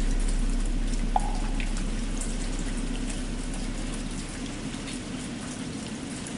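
Steady rain patter with the low hum of a struck bell slowly dying away underneath it. A single small knock comes about a second in.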